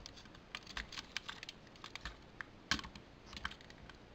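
Light, irregular clicks and taps of a hard plastic Transformers figure being handled and its parts adjusted, with one louder knock a little before three seconds in.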